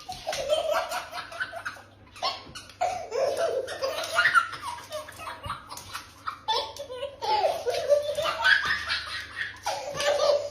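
A person laughing hard in three long bouts.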